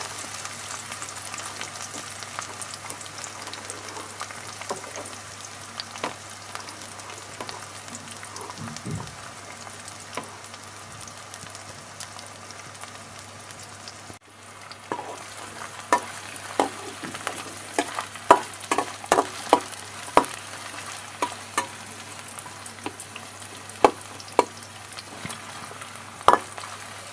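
Chopped onion frying in hot oil with tempering spices in a steel kadai, giving a steady sizzle. About halfway through, a spatula starts stirring, with sharp clinks and scrapes against the pan.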